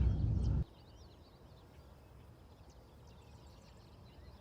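A low rumble, like wind or handling noise on the microphone, that cuts off abruptly under a second in; then a quiet outdoor background with faint, scattered bird chirps.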